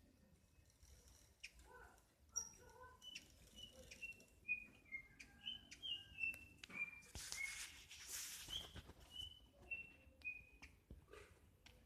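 Small aviary songbirds chirping faintly: a string of short whistled notes, many sliding slightly down in pitch, with scattered sharp clicks. A brief rustling rush about seven seconds in.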